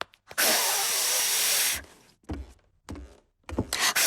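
A cartoon pig blowing air hard through pursed lips twice, a long breathy rush each time with no whistle tone: a failed attempt to whistle.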